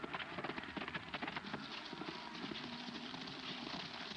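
Horse hoofbeats: a rapid, irregular clatter of many hoof strikes.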